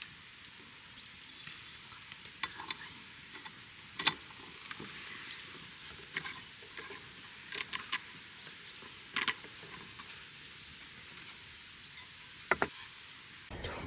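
Scattered small sharp clicks and crackles over a steady faint hiss, the loudest about four and nine seconds in and a quick pair near the end.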